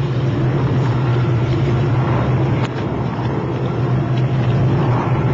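A boat's engine running steadily with a strong low hum, under a constant rush of wind and water noise. A brief click comes about two and a half seconds in.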